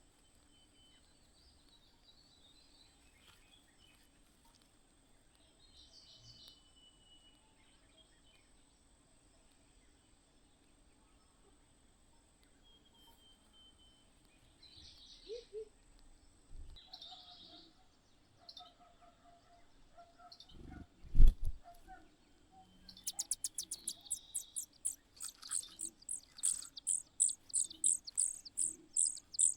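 Birds at a nest: scattered faint high chirps, a sharp thump about two-thirds of the way in, then a fast run of loud, high-pitched chirps repeated several times a second, typical of nestlings begging.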